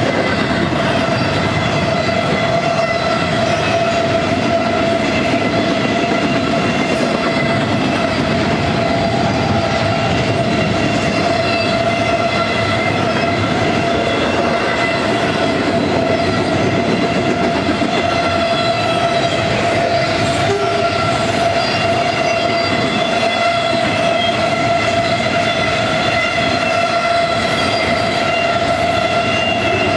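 Double-stack intermodal container train rolling steadily past, with steel wheels running on the rails. A steady high-pitched whine with overtones carries on over the rolling noise the whole time.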